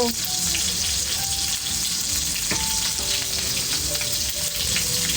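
Meat rolls wrapped in xương sông leaves sizzling steadily as they fry, with one sharp click about two and a half seconds in.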